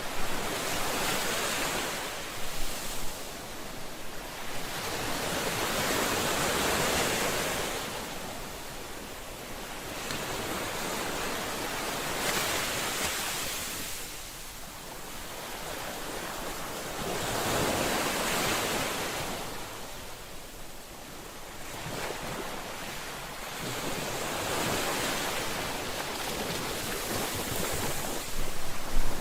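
Ocean surf: waves washing in and ebbing away as a steady rush of noise that swells about every five to six seconds.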